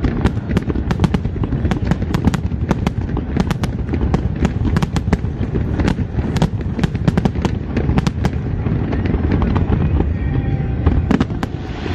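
Fireworks display: aerial shells bursting in quick succession, sharp bangs and crackles several a second over a continuous low rumble of booms.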